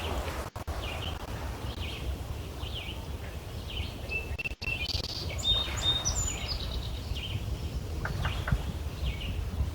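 Small birds chirping and calling over a steady low rumble, with a burst of brighter whistled notes about halfway through.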